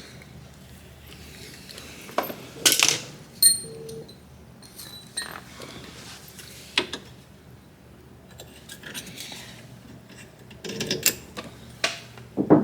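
Metal tools and parts clinking and clattering in a series of short knocks, a few ringing briefly, with clusters about two to four seconds in and again near the end.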